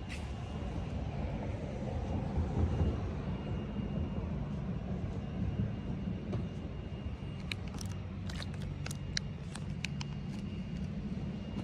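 Steady low mechanical rumble with a low hum and a faint high whine. Several light clicks or taps come between about seven and ten seconds in.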